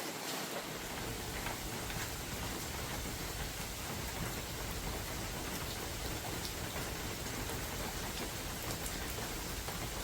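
Steady spring rain falling through forest, an even hiss with scattered drops ticking close by. About half a second in, a low wind rumble comes in underneath and holds.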